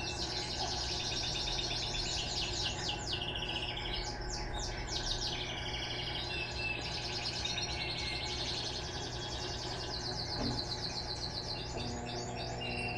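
Small birds chirping in rapid, overlapping trills throughout, over a steady low hum; about twelve seconds in a second steady low tone joins the hum.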